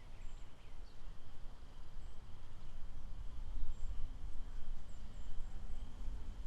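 Outdoor lakeside ambience: an uneven low rumble that swells and fades is the loudest part, under a faint steady insect hum and a few brief, high bird chirps.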